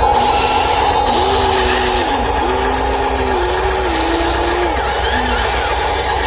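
Small electric motors of a radio-controlled construction model, dump truck or excavator, whining. A steady high tone runs under lower tones that step up and down in pitch every second or so as the machine works.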